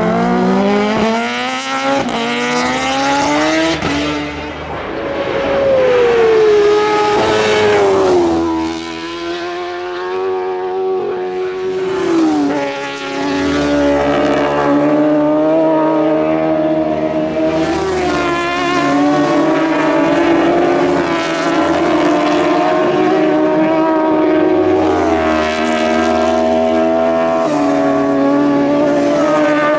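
Superbike racing motorcycle engines running hard at high revs, their pitch climbing and then dropping sharply again and again as gears are changed, with several bikes heard at once at times.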